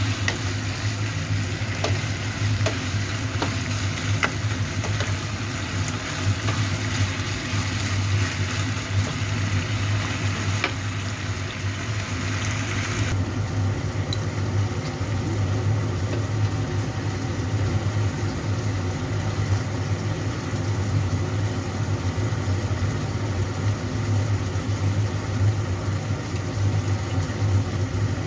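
Food sizzling as it fries in a hot pan, over a steady low hum. About halfway through, the bright hiss of the sizzle drops away suddenly, leaving a softer sizzle and the hum.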